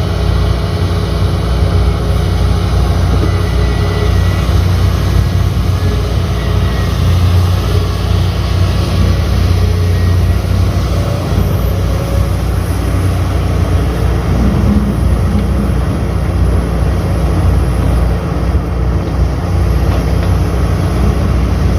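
Diesel engine of heavy earthmoving machinery running steadily: a loud, constant low drone.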